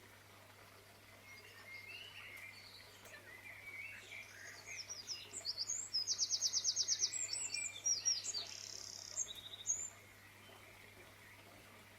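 Songbirds chirping and singing, building up a few seconds in to a rapid trill and a burst of whistled notes, then fading back to scattered chirps about ten seconds in.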